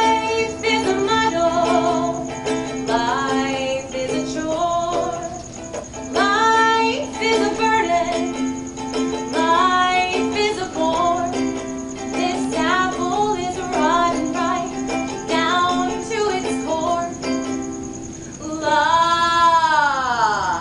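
A woman singing to her own ukulele accompaniment, strummed chords under a sung melody; near the end her voice slides down on a long held note.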